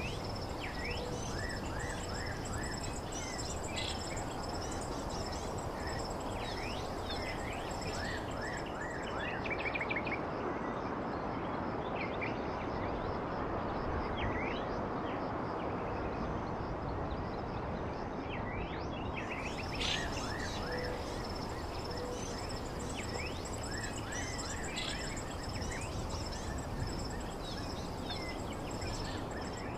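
Birds chirping in short, quick notes over a steady background hiss, with a high insect-like buzz that stops about nine seconds in and returns about ten seconds later.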